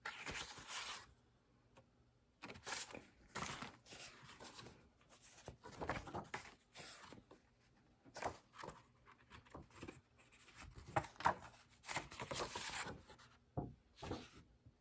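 Packaging rustling and crinkling in short irregular bursts as items are handled, with brief pauses between.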